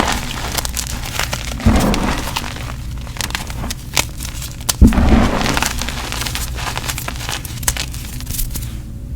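Gym chalk being crushed and crumbled: a dense run of small crunches and crackles, with two heavier crunches about two and five seconds in.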